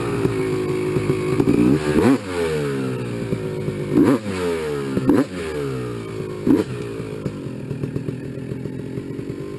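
Suzuki RM250 two-stroke dirt bike engine revving hard. Its pitch swings up and down several times, with sharp changes about two, four, five and six and a half seconds in, and it grows fainter toward the end.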